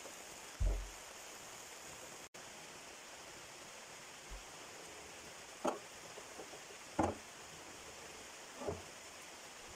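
Steady rain falling, an even hiss, with four short soft knocks scattered through it: one about a second in and three in the second half.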